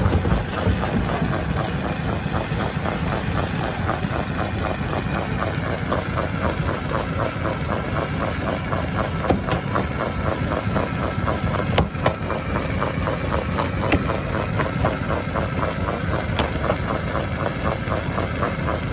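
Stone crusher running steadily under load as it breaks rock, a continuous dense mechanical din with a few sharp knocks of rock cracking at irregular moments.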